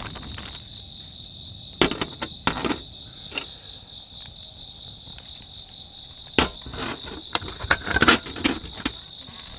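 Insects chirping in a steady, rapidly pulsing high trill, with scattered sharp knocks and clicks, about seven of them, the loudest near the end.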